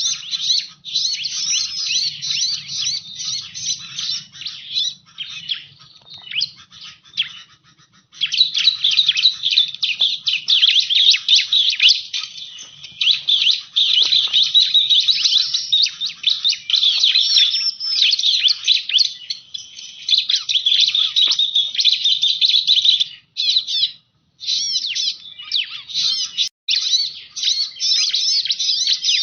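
Bar-winged prinia (ciblek) song used as a lure call: rapid, dense, high-pitched chirping and trilling. It thins out for a few seconds about a quarter of the way in and breaks off briefly a couple of times near the end.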